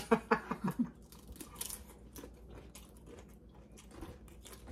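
Close-up chewing and crunching of crisp corn tortilla chips, a quick run of short, sharp crunches.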